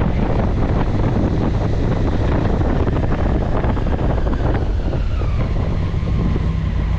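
Heavy wind buffeting on the microphone over a steady low vehicle rumble.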